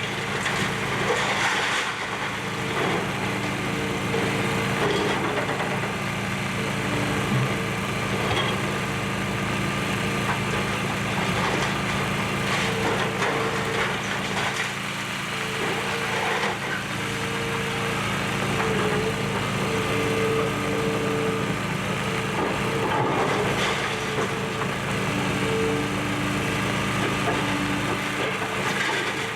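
Excavator's diesel engine running steadily during demolition, with a higher hydraulic whine that comes and goes as the arm works, and scattered cracking and crunching of debris.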